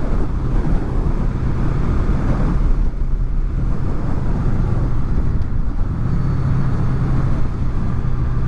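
Honda VFR800's V4 engine running steadily at cruise, with wind and road rumble, heard through helmet microphones fitted with furry dead-cat windshields.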